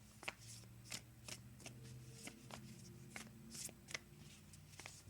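Oracle cards being shuffled and handled by hand: a quiet run of soft card flicks and snaps, about a dozen short clicks spread over the few seconds.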